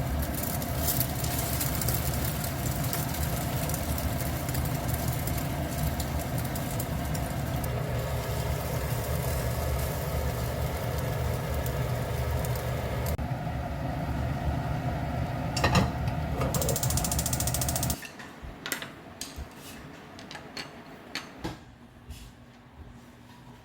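A steady mechanical hum from a running appliance motor, which cuts off suddenly about three-quarters of the way in, leaving light clicks and knocks.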